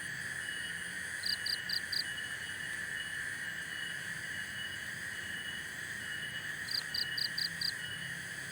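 Night chorus of insects, a steady drone with a high chirp pulsing on and off about once a second. Twice, a call of four or five quick high notes cuts through, once about a second in and again near the end.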